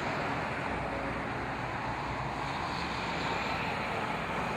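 Tow trucks passing in a line: a steady mix of engine hum and road noise.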